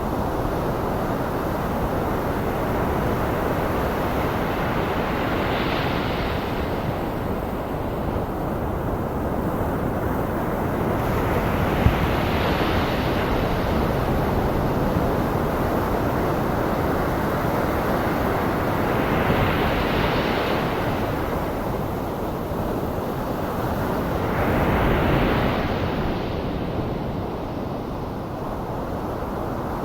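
Ocean surf breaking in slow waves, one swell about every six or seven seconds, over a continuous bed of white noise.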